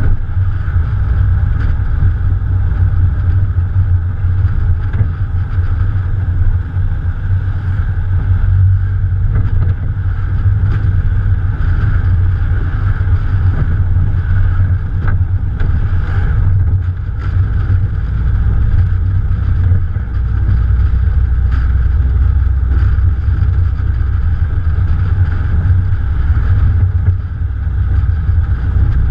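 A Morgan Plus 4's Ford 2.0-litre four-cylinder engine runs steadily while the car is driven, heard from a camera on the bonnet. Wind buffets the microphone with a heavy low rumble.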